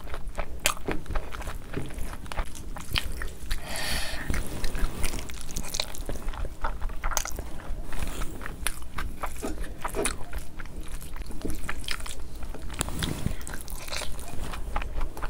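Close-up wet chewing and mouth sounds of someone eating biryani rice by hand, with frequent short smacks and clicks over a low steady hum.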